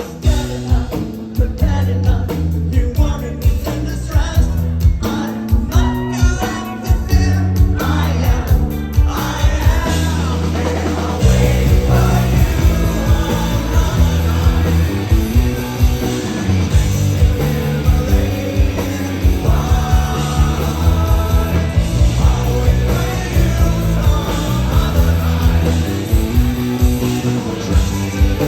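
Rock band playing live, with drums, bass, electric guitars and a sung vocal, heard loud through a phone or camera microphone in the crowd.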